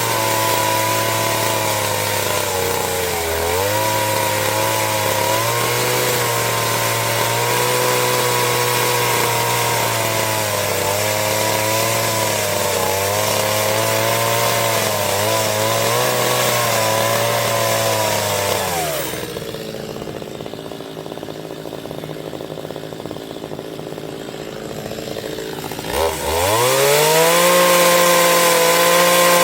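Chainsaw running steadily as it cuts wood, its pitch wavering slightly. About two-thirds of the way through the engine note falls away and it runs quieter for several seconds. Near the end it revs back up sharply to a higher pitch.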